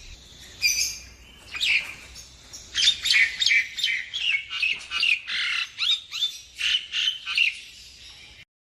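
Nias hill myna calling: a few scattered sharp notes, then from about three seconds in a fast run of short, loud whistled calls, ending abruptly just before the end.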